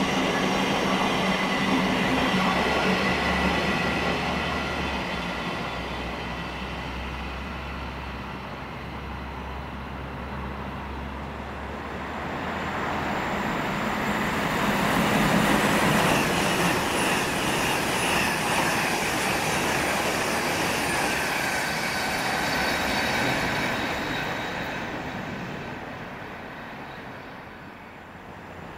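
Great Northern Class 717 electric multiple unit running past, its sound fading away, then an LNER Azuma train approaching and passing, swelling to a peak and fading again with a high steady whine over the rumble of the wheels.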